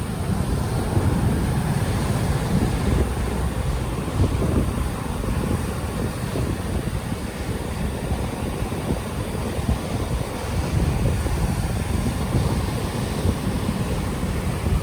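Ocean waves washing in, heavily overlaid by wind buffeting a microphone that has no windscreen: a constant low, gusting rumble that swells and eases every second or two.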